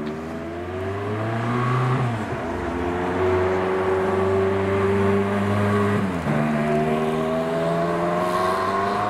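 A supercar's engine accelerating hard as it pulls away. The revs climb steadily, fall sharply at two upshifts about two and six seconds in, then climb again, and the sound grows louder over the first few seconds.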